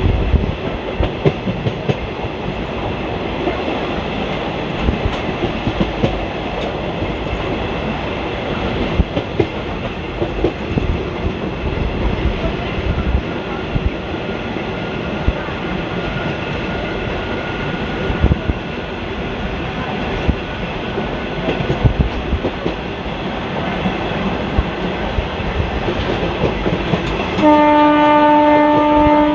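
Passenger train coach running along the track, heard from inside: a steady rumble with the wheels clicking over rail joints. Near the end a train horn blows one steady note for about two seconds.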